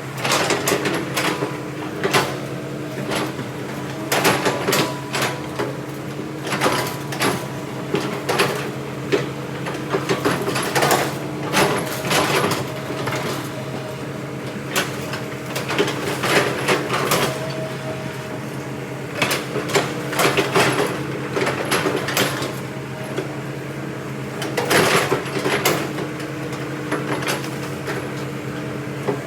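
Heavy diesel machinery working logs: a steady engine drone with frequent irregular knocks and clanks over it.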